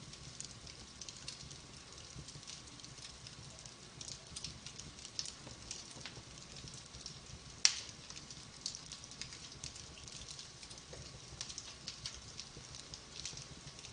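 Wood fire burning in a fireplace, crackling steadily with many small pops, and one louder, sharper pop a little before the middle.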